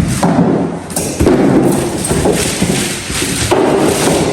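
A sharp thud, then a few seconds of knocking and handling noise from the large cardboard box of an 86-inch television being moved and opened.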